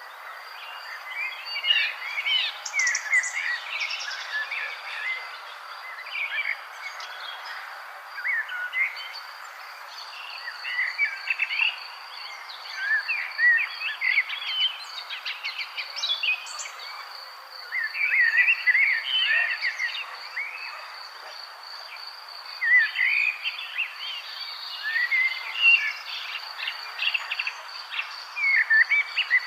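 Birds singing in repeated short phrases of chirping song over a steady, high, pulsing insect trill, with a soft hiss of background noise.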